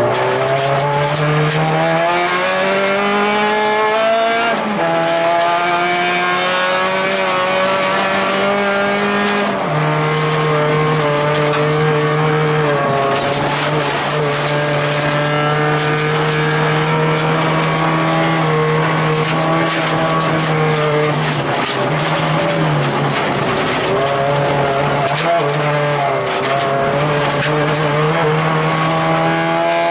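Acura RSX rally car's four-cylinder engine running hard, heard from inside the cabin. It revs up with upshifts about five and ten seconds in, then holds high revs with brief lifts off the throttle.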